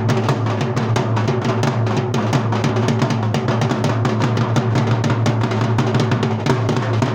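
Dhol drumming: a fast, steady rhythm of strokes over a deep, booming low tone.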